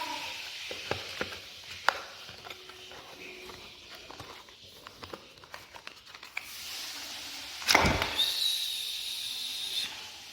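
Small cardboard and plastic packaging being handled and opened: scattered light clicks and rustles, then a louder scrape or rip about eight seconds in followed by about two seconds of hissing rustle.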